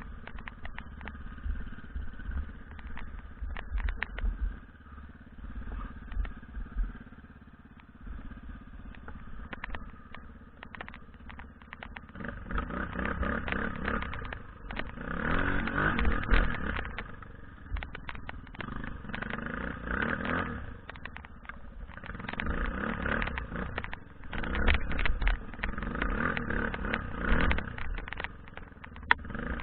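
BM Enduro 250 motorcycle engine, quieter at first, then opened up in repeated throttle bursts every few seconds from about halfway through, with scattered knocks and clatter.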